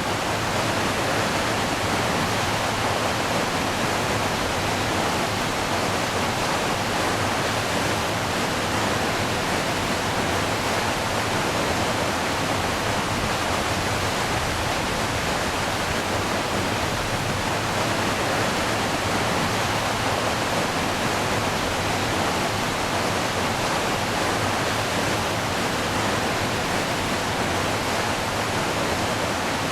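Steady, unbroken rush of falling water from a river waterfall or rapids, with no rise or fall in level.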